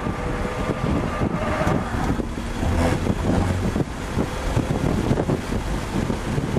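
BMW E36 M3's straight-six engine running hard around the track, heard from inside the cabin, under a steady wash of wind and road noise.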